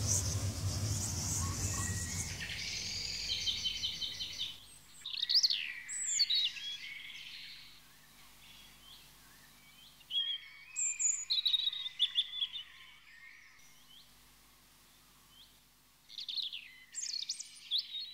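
The soundtrack music dies away over the first four seconds or so, then birds chirp and call in three bursts of quick rising and falling high notes, with quieter pauses between.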